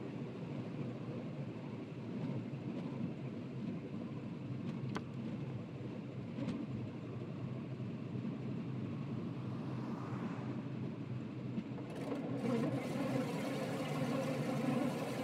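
Metre-gauge electric train running, heard from the driver's cab: a steady rumble of wheels on rail with a couple of faint clicks midway, growing busier and a little louder near the end.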